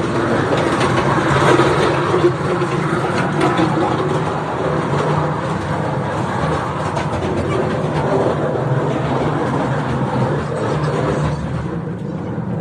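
Passenger train running on the tracks, a steady loud mechanical noise that eases slightly near the end.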